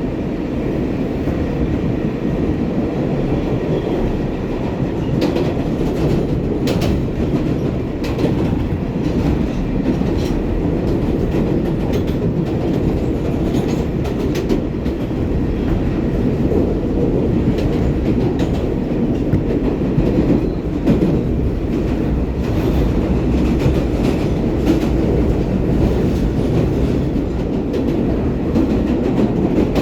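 R188 subway train running at speed, heard from inside the car: a steady rumble of wheels and traction motors, with scattered clicks of the wheels over rail joints.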